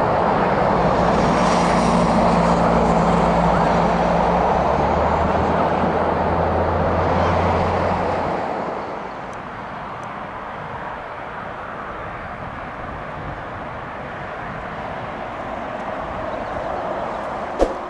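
Jet airliner passing low overhead on final approach, its engines loud with a falling whine for about eight seconds, then fading to a quieter, steady rumble.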